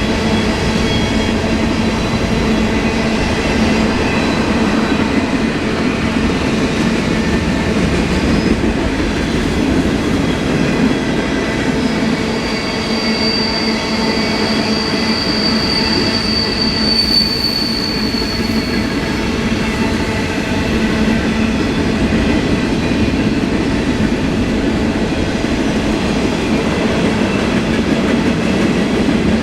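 Freight train cars rolling steadily past on steel wheels, with the wheels squealing on the rails; a sharper high squeal stands out for several seconds around the middle.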